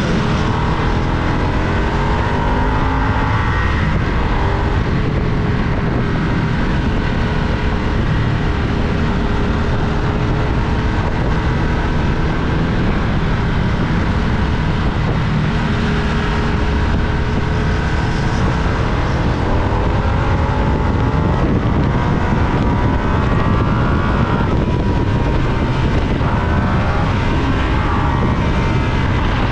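Motorcycle engine running under way, its pitch rising under acceleration and levelling off several times as it works through the gears, over a steady low rush of road and wind noise.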